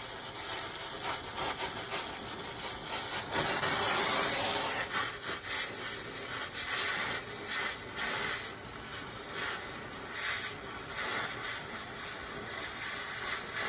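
Brazing torch flame hissing steadily against a copper pipe joint, swelling and easing as the flame moves, while the copper is heated up toward brazing temperature.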